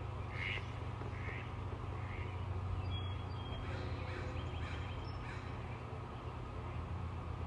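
Birds calling, a series of short calls about a second apart, over a steady low background rumble.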